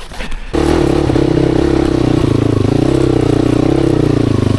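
Yamaha WR450F's single-cylinder four-stroke engine running. It comes in suddenly about half a second in and holds a steady, slightly wavering speed.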